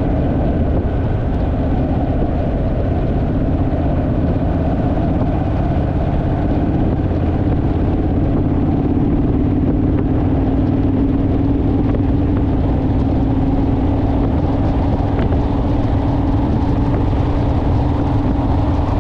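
Honda Rebel motorcycle engine droning steadily at cruising speed under heavy wind rush on the microphone, the drone growing stronger about seven seconds in.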